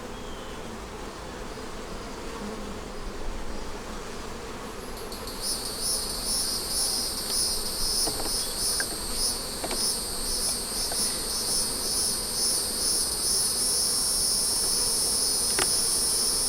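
A shrill, pulsing insect song starts about five seconds in and grows louder, over a low steady hum of honey bees around the open hive.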